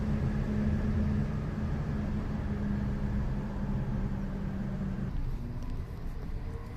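Steady low mechanical rumble with a droning hum, fading about five seconds in.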